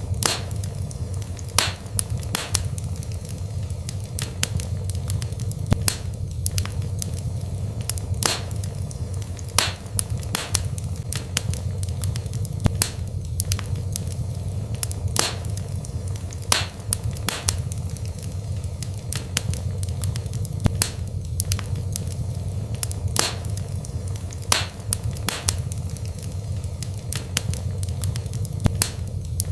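Wood fire burning in a fireplace: a steady low rumble under irregular sharp crackles and pops of the burning logs.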